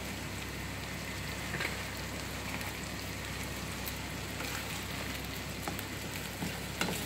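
Eggs with chopped tomato and onion sizzling steadily in a frying pan, with a few soft scrapes and taps as a slotted spatula turns them.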